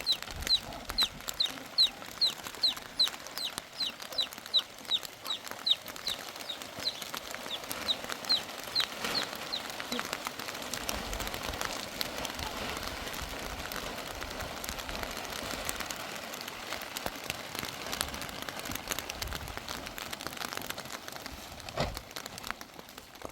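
A bird calling in a steady series of short, high, falling chirps, between two and three a second, which stop about ten seconds in, leaving a steady background hiss.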